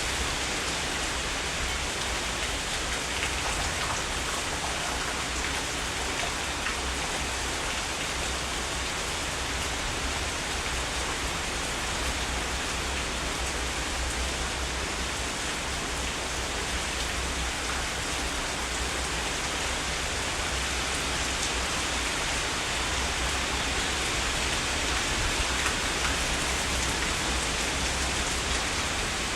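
Heavy, steady rainfall hissing evenly, with a low rumble underneath.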